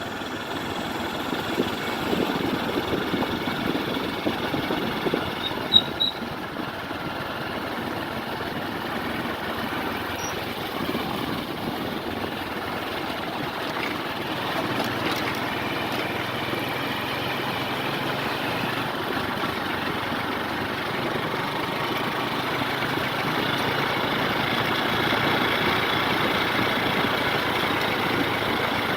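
Motorbike engine running steadily, growing a little louder in the second half, with two short high pips about six seconds in.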